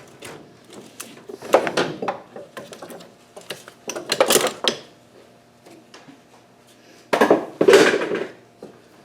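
Small metal parts and hand tools clinking and clattering as they are picked through and handled, in three bursts.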